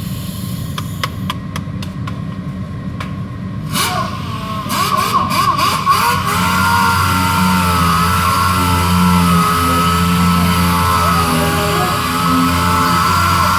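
Power sander starting up after a few sharp clicks, then running with a steady high whine over a low hum.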